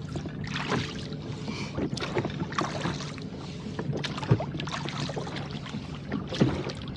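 Rowboat under way: oars working in the water with occasional knocks and water splashing against the hull in a steep chop, with some wind.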